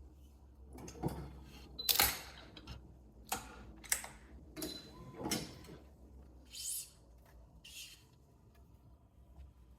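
A string of short clicks and rasps from restringing a badminton racquet, about one a second, as string and racquet are handled; two brief, high-pitched swishes come near the end.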